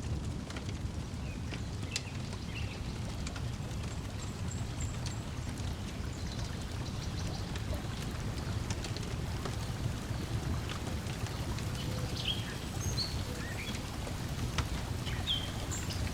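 Layered lakeside ambience: a steady low wash of lake water, with scattered sharp pops from a crackling wood fire and short, high bird chirps.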